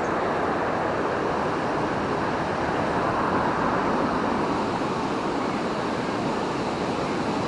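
River water rushing, a steady even roar of flowing water.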